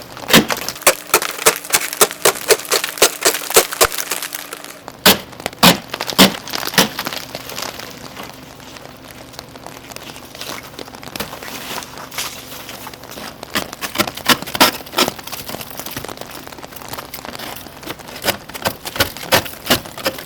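Ice scraper chipping and cracking a thick crust of freezing-rain ice off a car. Quick sharp strikes come about four a second at first, thin out in the middle, then come in another run near the end.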